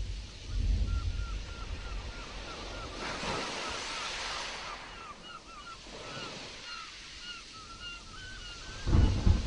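Stormy sea surf washing, with a surge about three seconds in. Through it a bird calls repeatedly in short, hooked chirps, two or three a second. A loud low rumble of thunder breaks in near the end.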